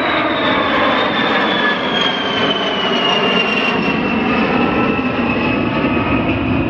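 Aircraft engines running loud and steady as the aircraft flies past, with a high whine that slides slowly down in pitch.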